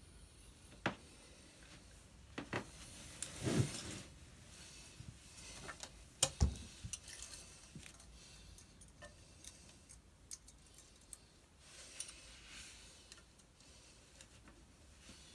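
Scattered metallic clicks and knocks of hand tools and exhaust parts being handled, with a couple of louder knocks about three and a half and six seconds in.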